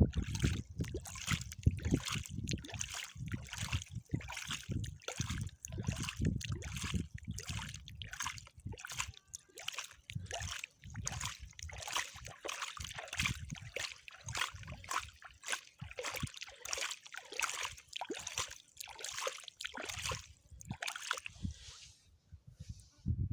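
Sand being scooped, scraped and poured by a toy backhoe loader: an irregular gritty crackle and trickle, thinning out near the end.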